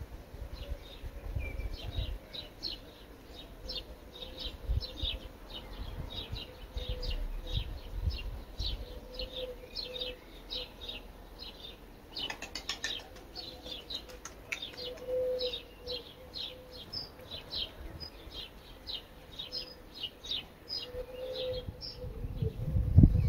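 A small bird chirping over and over, short high chirps at about two a second, with low rumbles that are loudest near the end.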